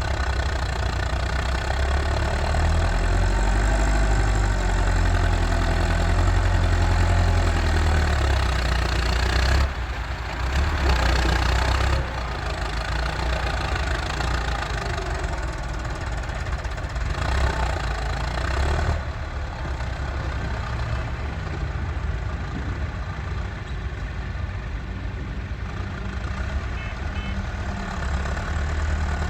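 Massey Ferguson 385 tractor's four-cylinder diesel engine running with a steady low rumble, its sound shifting abruptly about 10, 12 and 19 seconds in.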